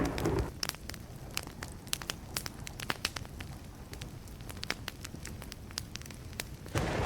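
Wood fire crackling, with frequent sharp pops over a steady low rumble. Two brief louder surges come right at the start and near the end.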